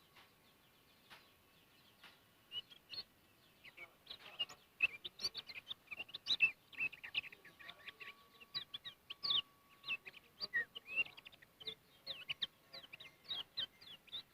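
Kecial kuning, a small white-eye songbird, singing a fast, scattered run of short, high chirps that starts a couple of seconds in.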